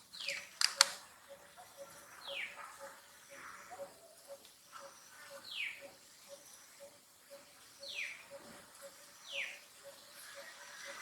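Short high-pitched animal calls, each falling quickly in pitch, repeated five times several seconds apart. Two sharp clicks come a little under a second in, over a faint regular ticking.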